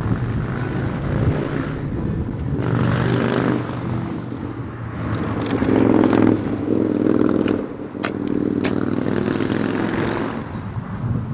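A car engine running and revved in three loud swells, each rising and then falling back.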